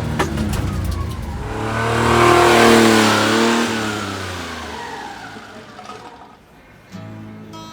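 A motor vehicle driving past close by: its engine and tyres grow louder to a peak about two and a half seconds in, then drop in pitch and fade away. Guitar music starts near the end.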